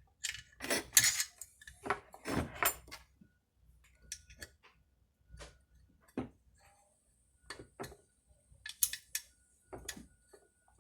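Small metal chainsaw parts and hand tools clinking and clattering in irregular bursts during reassembly, busiest in the first three seconds, then scattered single clicks and taps.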